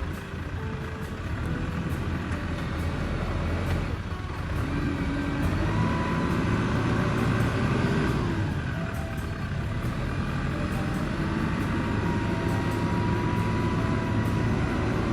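New Holland T5060 tractor's diesel engine running steadily under load, with a held whine that comes and goes.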